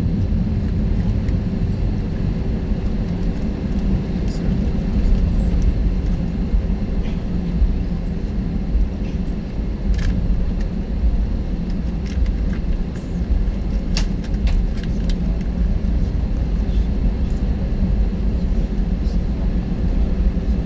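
A jet airliner's engines and airflow heard from inside the passenger cabin: a steady, loud low rumble with a faint hum, and a few brief rattles or clicks from the cabin, around the time of takeoff.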